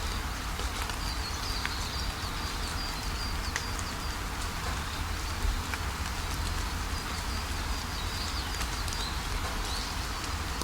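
Steady rain with scattered drop ticks over a low rumble, and a small bird chirping in quick runs of short high notes near the start and again near the end.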